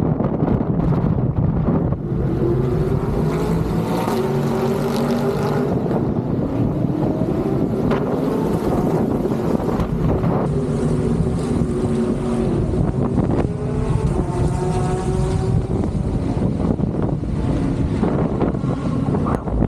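Race car engines accelerating past, their pitch climbing in repeated steps as they shift up through the gears, over a steady engine drone.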